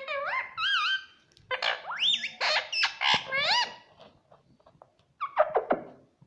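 Pet talking parrot calling. A run of whistle-like calls bends up and down in pitch for about four seconds, then after a short pause a few falling calls come near the end.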